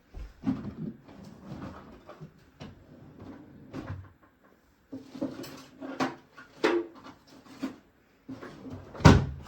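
Rummaging: objects being picked up, moved and knocked against each other in irregular clatters, with one sharp knock about nine seconds in.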